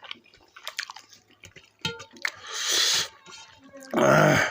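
Close-miked wet chewing and mouth noises from eating maize dhido with greens and pickle: scattered small clicks, then two louder noisy bursts, the loudest near the end.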